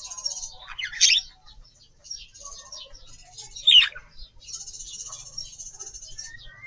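Aviary birds twittering, a scratchy high chatter that keeps going, broken by two loud sweeping calls, about a second in and again near four seconds in.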